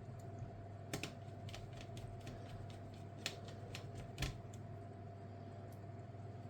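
Faint, irregular small clicks and taps of hand tools and small parts being handled while working inside an HP EliteBook 1040 G4 laptop, over a steady low hum.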